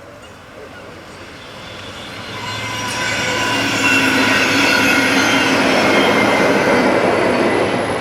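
A locomotive running past on the track, growing louder over the first few seconds and then holding steady. Several steady tones run through the running noise.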